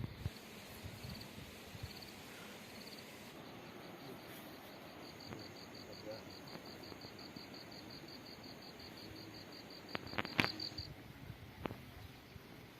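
An insect chirping in a high, rapid pulsed trill: a few short bursts at first, then a steady run for several seconds that stops near the end. A few sharp knocks sound about ten seconds in.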